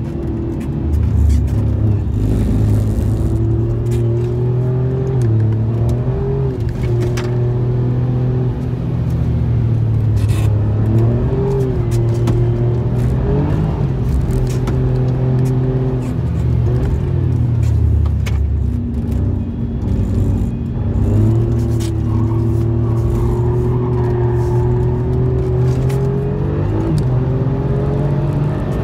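Alfa Romeo Giulia Quadrifoglio's twin-turbo V6 heard from inside the cabin, driven hard around a wet circuit. The engine note holds fairly steady and dips and climbs back several times as the throttle and gears change.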